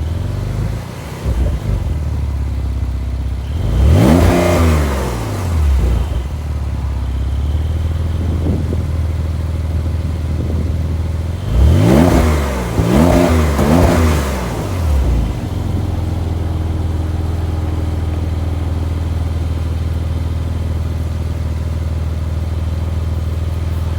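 Porsche 911 992 Carrera 4S twin-turbo flat-six with sports exhaust idling, blipped once about four seconds in, then given three quick revs in a row, each rising and falling back, before settling to a steady idle.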